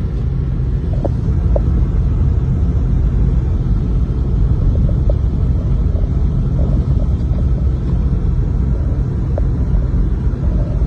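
Steady, loud low rumble with a few faint, brief tones over it.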